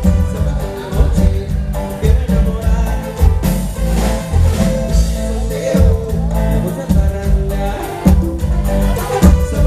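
Live band music with singing: a Latin dance song over a heavy bass line and a steady beat.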